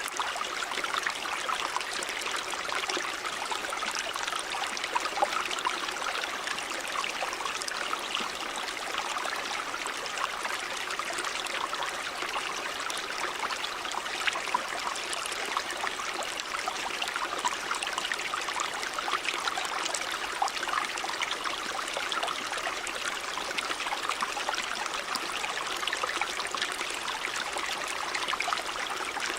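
Stream water running over rocks, a steady rushing and trickling babble with small splashes throughout.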